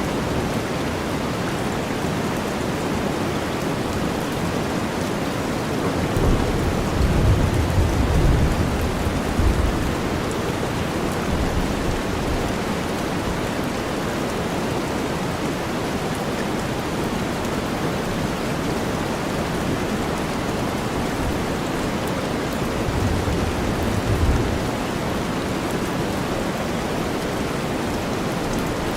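Steady rain blended with deep white noise, a dense even hiss. Low rumbles of thunder swell under it twice: a longer one about six seconds in and a shorter one about 23 seconds in.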